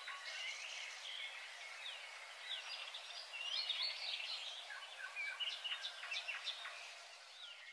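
Birds chirping faintly: many short calls over a steady outdoor hiss.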